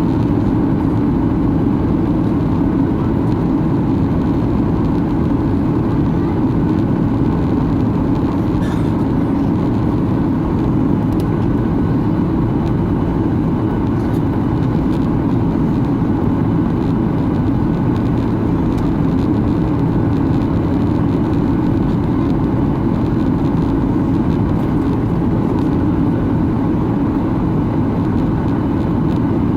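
Steady cabin noise inside a Boeing 737-800 on approach: its CFM56-7B engines and the airflow over the fuselage make an even, unchanging low rumble.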